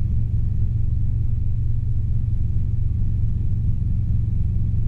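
Robinson R22 helicopter in steady cruise flight, heard from inside the cabin: the unbroken low drone of its four-cylinder piston engine and rotors.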